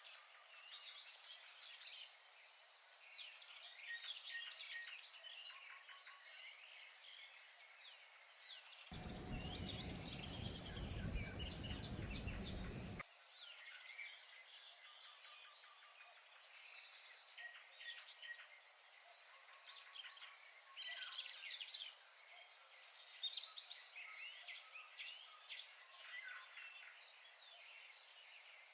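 Many small birds chirping and singing. About nine seconds in, a louder stretch of noise with a steady high whine lasts about four seconds, then cuts off suddenly.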